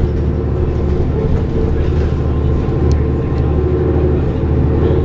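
Cummins ISL straight-six diesel of a New Flyer D40LF transit bus running steadily, heard from inside the bus, with an even low drone and no change in pitch.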